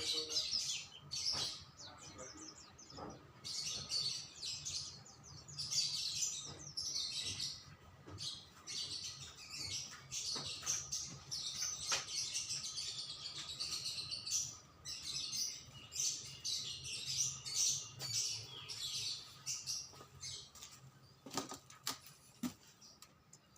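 Songbird chirping and singing in quick high trills and twitters, almost without pause, then thinning out near the end.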